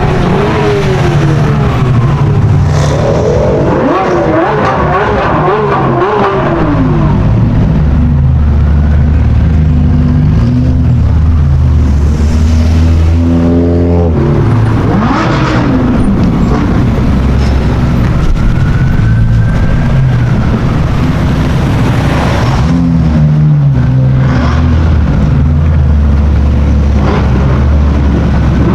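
High-performance car engines accelerating and revving past, with the engine note stepping through gear changes, over steady traffic noise. Several cars go by in turn.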